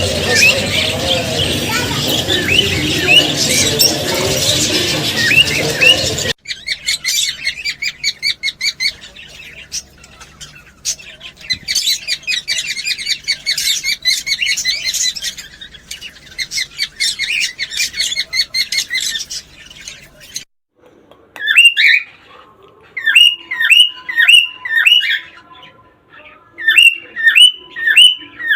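Cockatiels chirping and calling, in three sections that change abruptly. First comes a dense, busy mix of chirps. Then comes rapid twittering. Then, after a brief gap, comes a string of repeated rising calls, about two a second.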